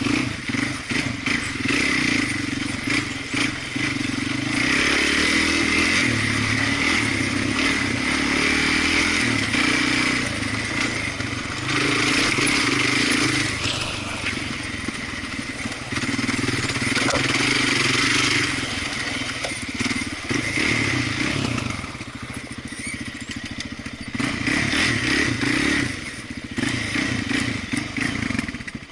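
Off-road vehicle engine running while riding, the throttle opening and closing so that the engine note rises and falls again and again, with rattling over rough trail.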